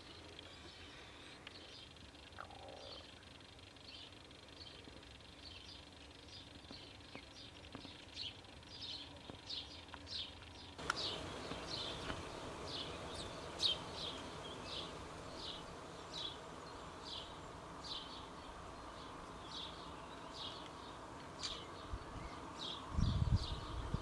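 A bird's short, high chirps repeated about once or twice a second, faint at first and louder from about halfway on, over a steady background hiss. A brief low rumble near the end.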